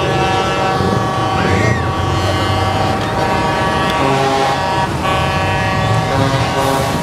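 Several truck air horns held together in a steady, many-toned chord over the engine rumble of passing heavy trucks.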